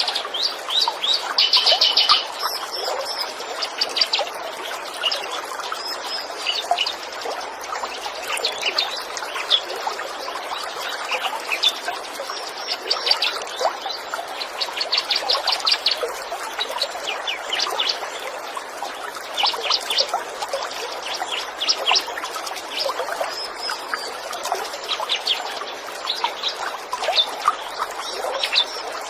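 Small birds chirping and trilling in short, rapid high-pitched bursts, repeated every second or two, over the steady trickle of running water.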